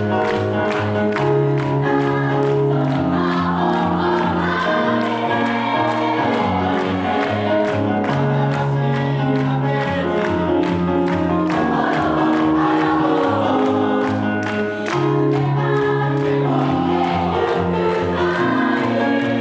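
A choir singing in unison over a backing accompaniment with a steady beat.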